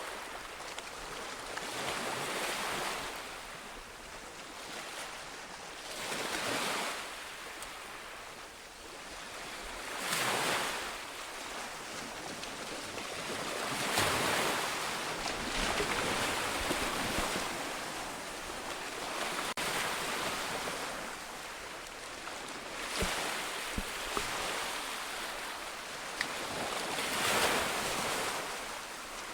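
Ocean waves breaking and washing up a beach, the surf swelling and falling every few seconds in an irregular rhythm.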